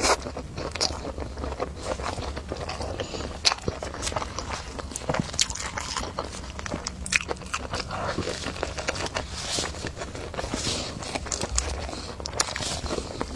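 A person chewing and biting food close to the microphone, with many sharp, wet mouth clicks and small crackles.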